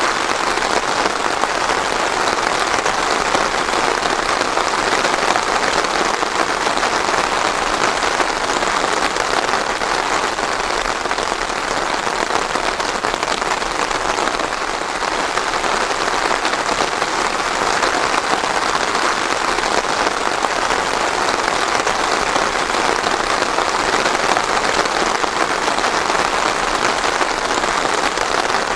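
Steady, heavy rain falling on a surface, with a dense, even patter and no thunder.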